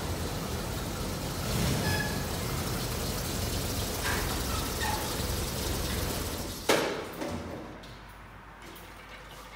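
A vehicle engine running with a steady rumbling noise, cut by a single sharp click about seven seconds in, after which it goes much quieter.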